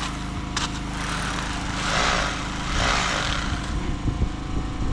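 A small motor running steadily with a low hum, and two louder hissing swells about two and three seconds in.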